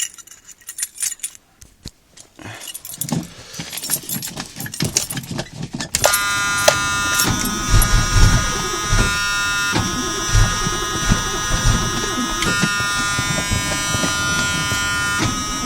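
Keys jangling and clicking for several seconds, then an electric warning buzzer in the cab of a 1981 Ford F250 switches on suddenly and sounds a steady multi-tone buzz, breaking briefly a few times: the key is in the ignition before the cold start.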